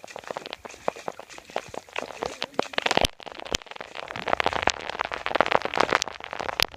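Rain and river water splashing close to the microphone while wading, a dense crackle of small drops and splashes that grows busier after the middle. A few sharp knocks, about three seconds in and near the end, are likely handling or drops hitting the camera.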